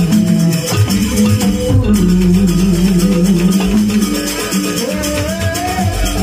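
Jaranan accompaniment music: an ensemble playing with a steady percussive beat under a sustained melody line that slides in pitch, rising about five seconds in.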